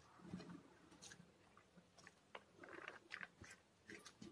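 Faint chewing of a mouthful of rice, with scattered small clicks as fingers mix rice on a plate.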